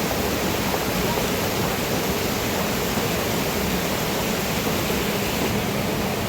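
Rushing floodwater from a rain-swollen stream or river, a steady, even rush of water with no breaks.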